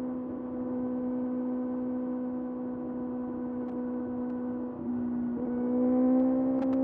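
2025 Kawasaki ZX-6R's 636 cc inline-four running at a steady cruising speed. Its note dips briefly about five seconds in, then comes back slightly higher and louder.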